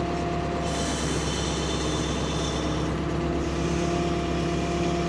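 Ford P-42 excavator's engine running steadily. From about a second in to about three seconds a high hiss with a thin whine rises over it, the hydraulics working as the boom moves.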